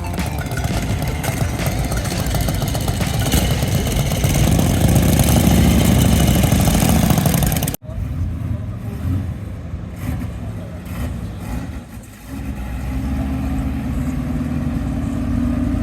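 A loud passage cuts off abruptly about eight seconds in, followed by muscle car engines idling and running with a low rumble that steadies into an even tone near the end.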